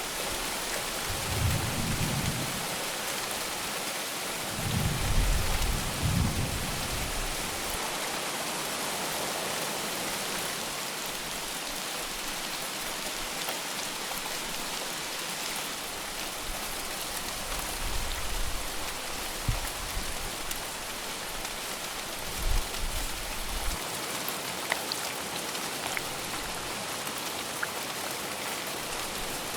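Steady heavy rain falling, an even hiss. Thunder rumbles low and briefly a few times, loudest about five seconds in.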